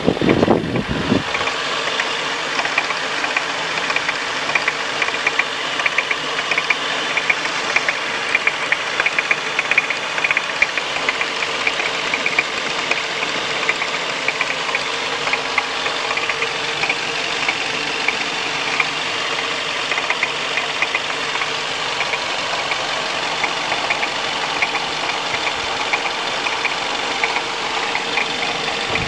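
Car engine idling with a rapid, ringing metallic knocking from the alternator's overrunning clutch pulley: the clutch is faulty.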